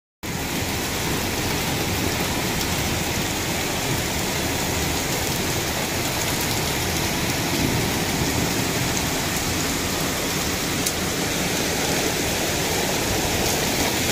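Heavy rain pouring down in a steady, dense hiss, with a few faint drop ticks.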